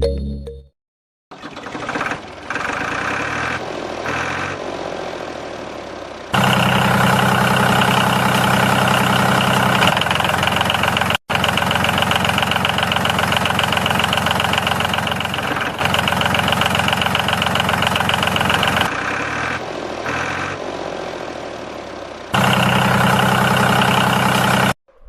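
A motor running steadily, in clips joined by sharp cuts. It gets louder about six seconds in, drops back a little after the middle, and rises again near the end.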